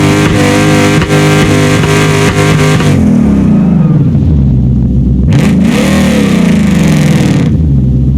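V8 engine revving: held at high revs for about three seconds, then dropping back lower, with the revs rising and falling in a few throttle blips.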